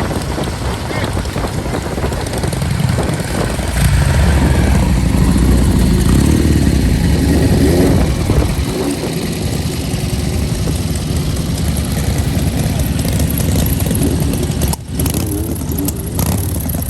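Motor vehicle engines running loudly, with some revving, and a brief drop in level about fifteen seconds in.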